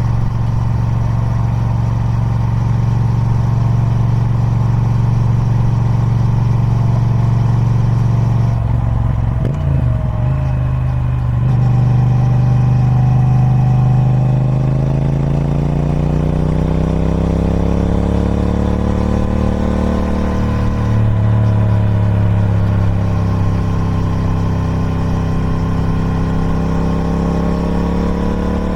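Triumph Speed Twin 1200's 1200cc parallel-twin engine running through its stock exhaust. The note holds steady for the first several seconds, is briefly unsettled about nine seconds in, then slowly rises and falls in pitch.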